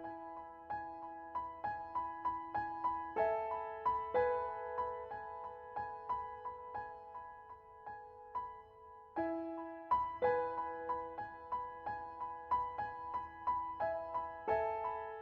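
Soft solo piano background music, gentle notes struck one after another over held chords.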